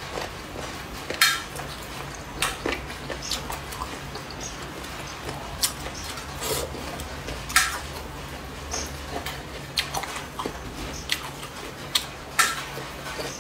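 Close-miked eating of crunchy cucumber slices from a spicy boneless chicken-feet dish: an irregular string of sharp crunches and wet clicks, the loudest about a second in and again past the middle.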